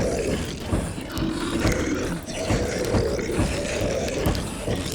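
Sound-design horror mix: a bed frame rattling and shaking in quick uneven knocks, under low, drawn-out zombie moaning.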